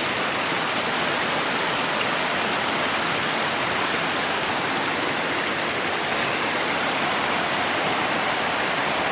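Snowmelt creek rushing steadily, a dense even hiss of running water.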